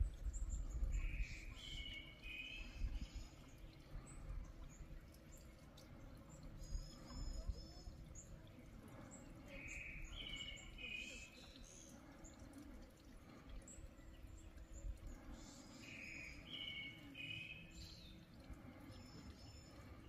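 Birds singing over a low wind rumble. One bird repeats a short phrase of paired chirping notes three times, several seconds apart, with a few higher notes in between. The rumble is strongest at the very start.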